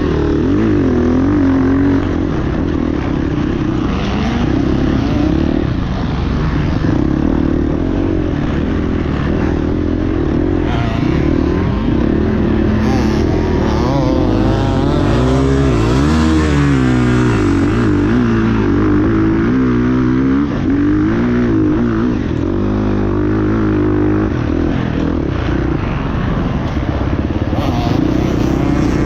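Several motocross bikes running on the track, their engines revving up and down through the gears, with the overlapping engine notes rising and falling throughout.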